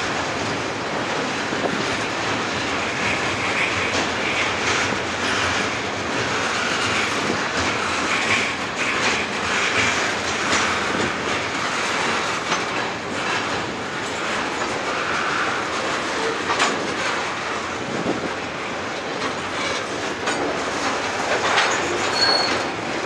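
Freight cars rolling past across a girder bridge: a steady rumble of steel wheels with repeated clicks and clunks over the rail joints, and a brief high wheel squeal near the end.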